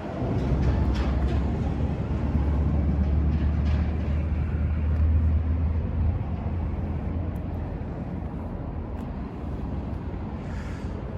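Yamaha Ténéré 700's 689 cc parallel-twin engine, breathing through a Power Box exhaust header, running steadily at idle. It is a little louder for the first six seconds, then settles slightly lower.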